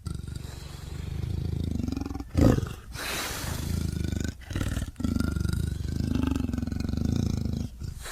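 Smilodon saber-toothed cat creature sound effect: a string of drawn-out, low big-cat roars and growls cut one after another, with a short, loud roar about two and a half seconds in.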